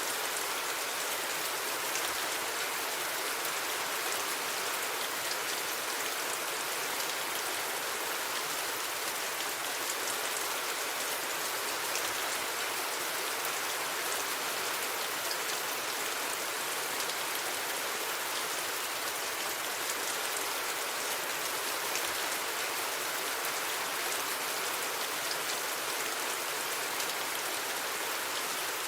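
Steady rain falling: an even hiss of many drops, with single drops ticking now and then and no thunder.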